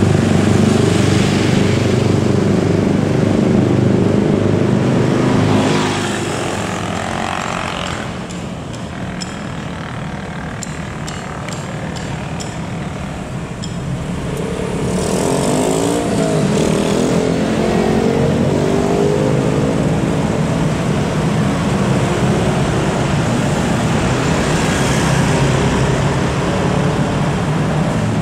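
Heavy truck diesel engine running loudly with traffic noise. The engine note eases off for a few seconds in the middle, rises and falls, then runs loud and steady again.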